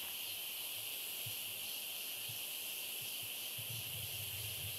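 Dense chorus of night insects, a steady shrill drone at two pitches, one high and one very high.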